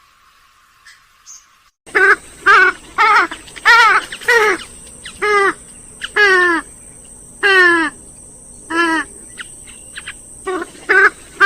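Grey-headed swamphen calling: starting about two seconds in, a run of about a dozen loud, short calls, each falling in pitch, given in quick groups with short gaps.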